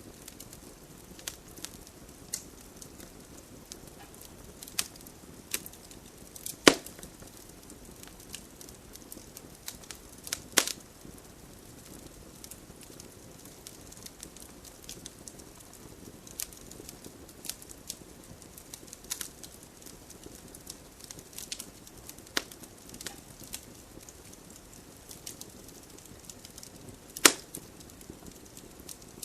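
Campfire burning: wood crackling with irregular sharp snaps and pops over a soft steady hiss, three pops standing out louder than the rest.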